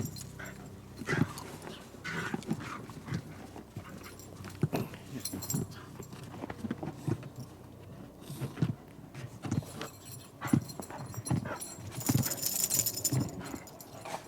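Dogs panting and moving about at play, a run of short irregular sounds.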